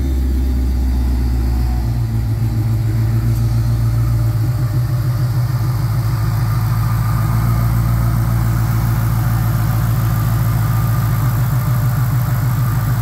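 Whipple-supercharged Gen 3 Coyote 5.0 V8 idling steadily. Its deepest part of the note drops away about two seconds in, leaving a steady, slightly higher drone.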